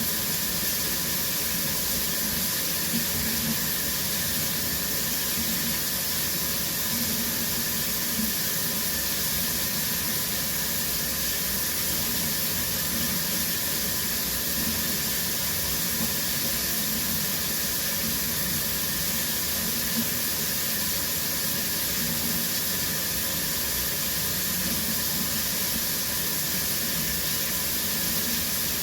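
Shower running steadily: water spraying from the shower head and splashing down, an even hiss.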